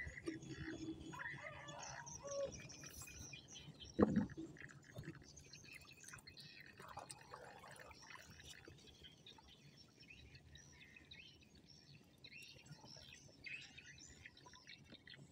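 Faint birds chirping, with a single knock about four seconds in as the loudest sound.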